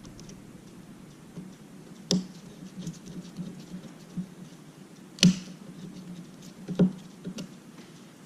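Light tapping and clicking from small parts and tools being handled on a workbench during an iPad mini reassembly. Three sharper knocks stand out, about two, five and seven seconds in.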